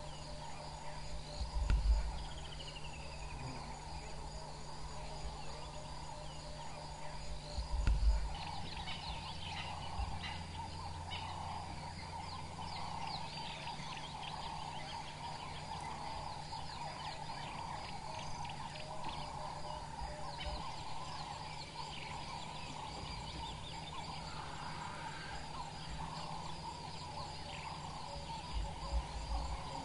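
Dawn bush ambience: insects trilling steadily while birds call in short chirps, with two low bumps in the first third.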